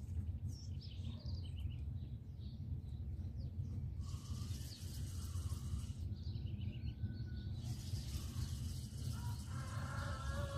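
Birds chirping on and off over a steady low outdoor rumble, with a louder, harsher call near the end.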